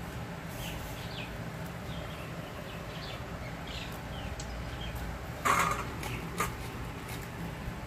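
Short falling bird chirps, repeated irregularly, over a steady low hum, while soaked soya chunks are squeezed out by hand in a steel bowl. A sharper knock about five and a half seconds in, and a smaller one just after, as squeezed chunks go onto a steel plate.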